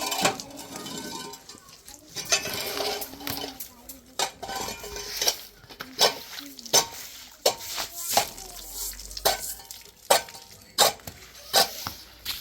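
Hard objects clinking and scraping against each other, with many irregular sharp knocks and clinks.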